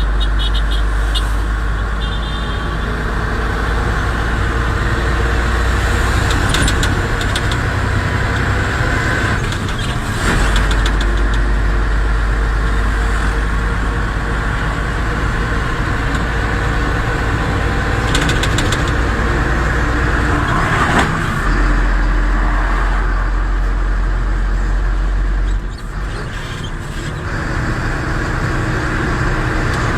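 Truck engine running with road noise as the vehicle is under way: a steady, heavy low rumble that lets up briefly three times.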